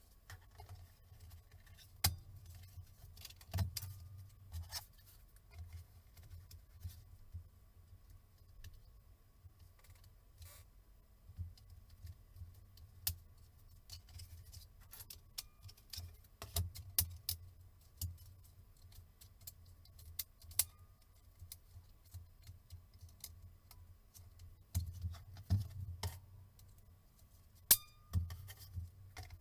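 Irregular small clicks and taps of tools and small hard parts being handled while a rugged laptop-tablet is worked on at a bench, with a low handling rumble beneath. A few sharper clicks stand out, one near the end the loudest.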